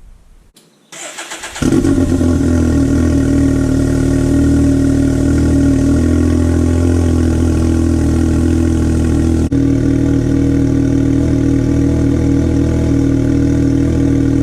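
Can-Am Maverick Turbo side-by-side starting on a cold engine: a brief crank about a second in, then it catches and idles steadily through its newly fitted aftermarket muffler.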